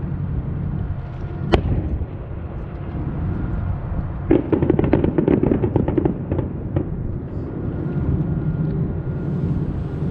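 Fireworks: a single sharp bang about a second and a half in, then a rapid run of crackling pops lasting about two and a half seconds, over a steady low rumble.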